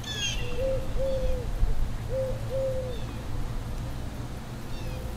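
A bird's low hooting calls: short, even coos given in pairs, the pairs about a second and a half apart. There is a brief burst of higher chirps at the very start, over a steady low rumble.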